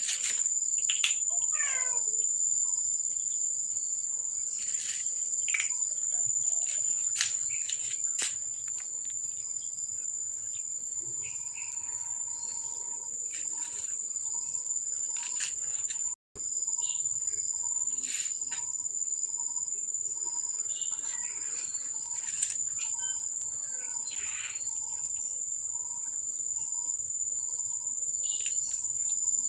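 Steady high-pitched chorus of insects, such as crickets, with occasional short chirps and clicks over it. The sound cuts out briefly about halfway through.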